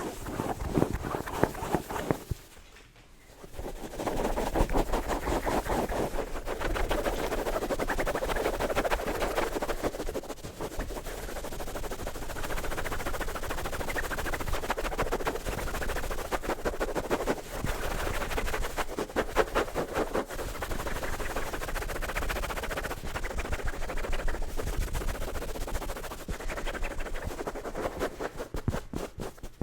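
Fast, aggressive scratching and tapping on an object, a rapid stream of sharp clicks and scratches, with a brief pause about two to four seconds in.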